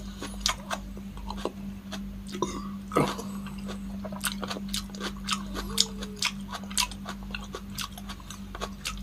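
Close-miked chewing of a mouthful of food, with many short wet mouth clicks and smacks at an uneven pace, over a steady low hum.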